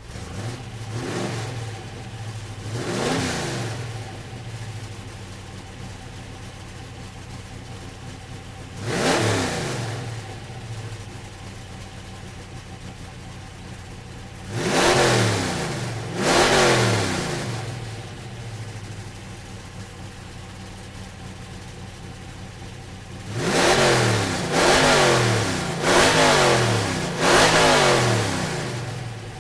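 Car engine idling steadily, blipped on the throttle again and again so that the revs rise and fall back each time. The blips come singly at first, then in a quick run of four near the end.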